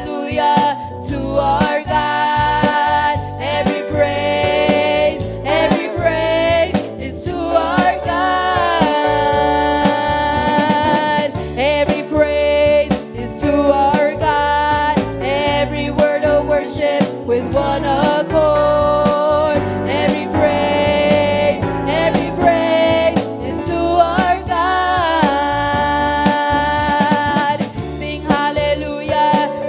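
Live gospel worship music: a band playing with a singer holding long, wavering notes over a steady beat.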